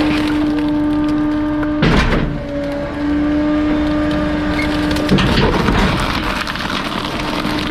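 Bulky-waste garbage truck's hydraulic compactor humming steadily as it crushes bulky waste. A sharp crack comes about two seconds in and a crunching crash about five seconds in, after which the hum drops out.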